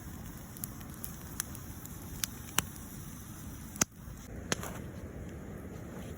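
A wood campfire crackling: scattered sharp pops, about one a second, the loudest a little before the middle, over a steady low background noise.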